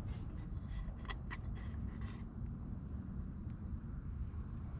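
Insects chirring in one steady high-pitched drone, over a low rumble, with a few faint clicks a little over a second in.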